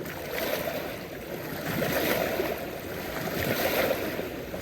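Rushing, churning water noise on a lake, swelling twice.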